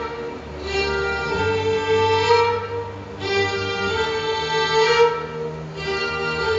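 Bowed strings playing slow, held chords that swell and fade in phrases of one and a half to two seconds, over a sustained low bass line.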